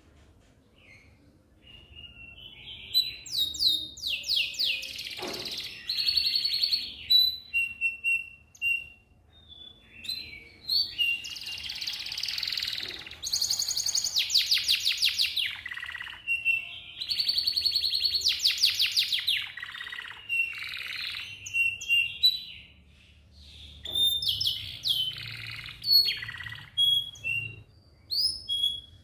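Domestic canary singing: long phrases of fast rolling trills of rapidly repeated notes, mixed with short chirps and whistled notes, with brief pauses between phrases.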